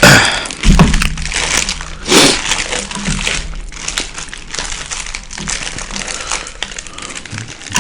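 Close-miked chewing of a beef burrito, with irregular wet mouth clicks and a few louder bites near the start and about two seconds in.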